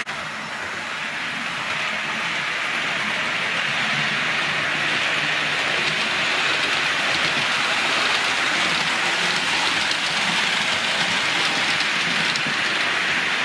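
Green Southern Region electric multiple unit train running along the track: a steady rushing noise of wheels on rails that builds over the first few seconds and then holds.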